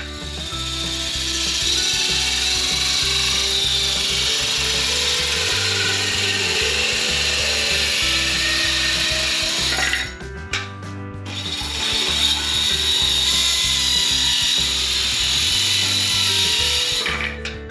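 Electric circular saw cutting through scrap wood: a long continuous cut, a short let-up about ten seconds in, then another cut.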